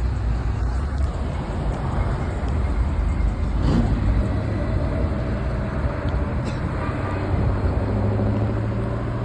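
Car engine running with a steady low rumble, with a brief sharp sound about four seconds in.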